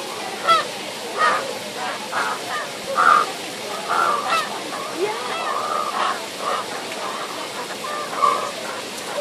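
Birds squabbling, giving a quick series of short, harsh, arching calls, some overlapping one another.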